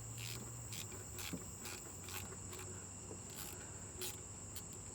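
Crickets chirping: a steady high trill with short chirps about twice a second.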